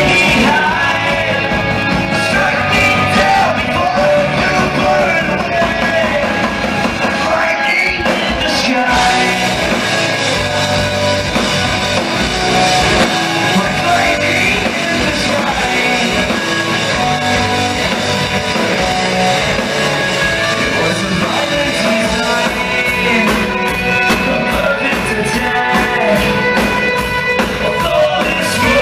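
Hard rock band playing live at full volume: distorted electric guitars, bass and drums with a singer's vocals over them.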